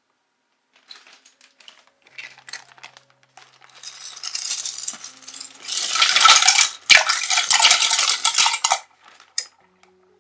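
Small hard pieces clattering and rattling together: scattered clicks at first, building into a dense, loud clatter from about four seconds in that dies away near the end.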